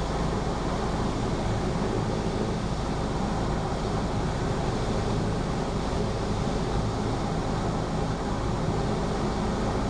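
Cessna 172P's four-cylinder piston engine and propeller droning steadily, heard from inside the cabin.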